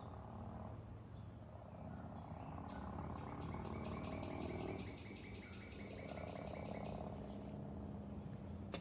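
Crickets trilling in one steady high tone. From about three seconds in to about seven seconds, a rapid pulsed call of about eight pulses a second joins them, over a faint low hum.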